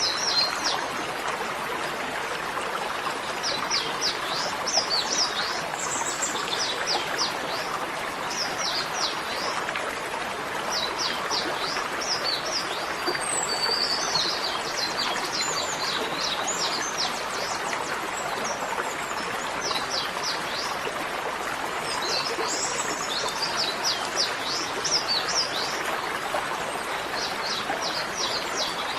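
Small bird singing short, rapid trilled phrases, repeated every couple of seconds, over a steady rushing noise like a stream.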